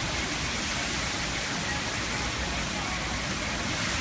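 Steady, even noise of hurricane rain and wind, with a gusty low rumble underneath.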